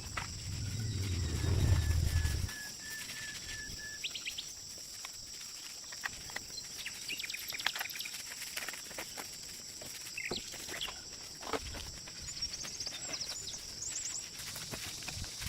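Outdoor ambience with scattered bird chirps and small clicks over a steady high hiss. A louder low rumble runs through the first couple of seconds and stops.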